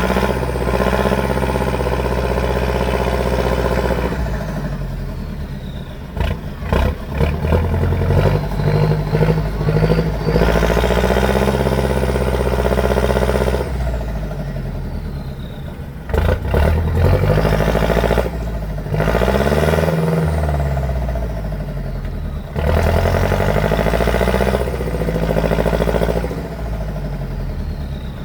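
Heavy off-road truck engine revving hard in repeated surges several seconds long, its pitch climbing and dropping again, with a spell of clattering knocks about six to seven seconds in.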